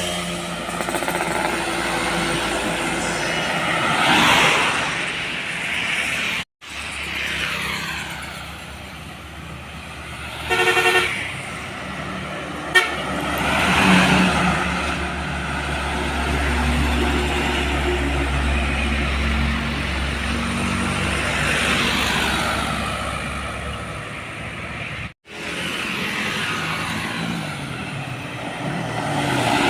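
Heavy trucks driving past on a highway, the engine and tyre noise swelling and fading as each one goes by. A short horn blast sounds about eleven seconds in.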